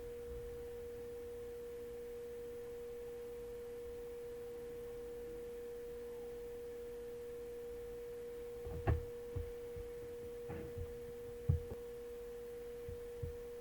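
A steady, even hum at one pitch, with a few short soft knocks in the second half.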